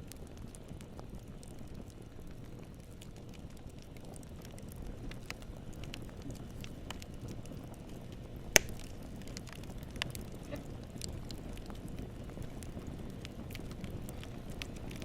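Wood campfire crackling: a steady low rumble of the flames, scattered with small snaps and pops. One sharp, much louder pop comes a little past halfway, with a smaller one soon after.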